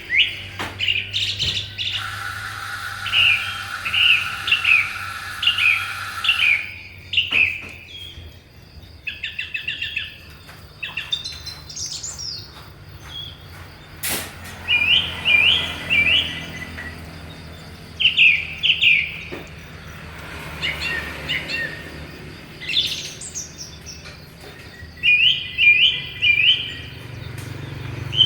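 Songbirds chirping in short bursts of quick, sharp notes, repeated every few seconds.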